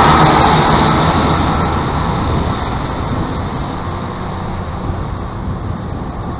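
Diesel multiple unit train running past close by and then moving away, its engine and wheel rumble fading steadily.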